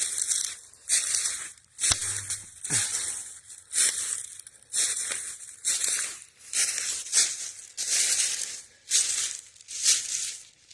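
Footsteps crunching through dry leaf litter, a steady walking pace of roughly one step every three-quarters of a second, climbing uphill.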